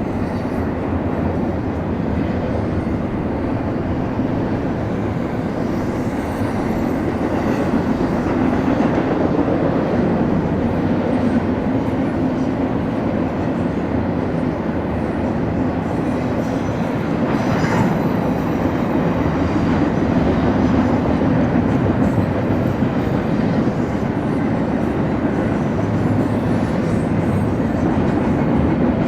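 Freight train rolling past on the track: a steady rumble of steel wheels on rail, with a brief short rise in noise about two-thirds of the way through.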